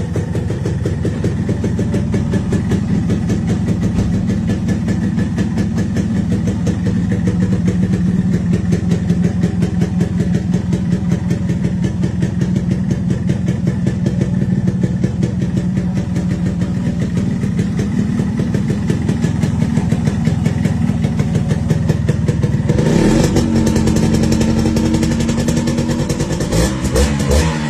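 Yamaha RX100's two-stroke single-cylinder engine idling through its exhaust with a rapid, even run of pulses, then revved up about 23 seconds in and given several short throttle blips near the end.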